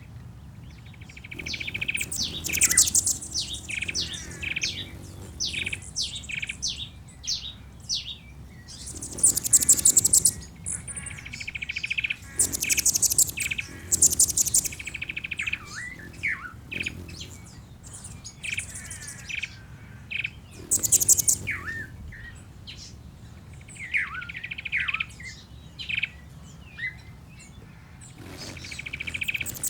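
Ambient birdsong: several small birds chirping and trilling in quick repeated bursts, some very high and buzzy, others lower whistled notes.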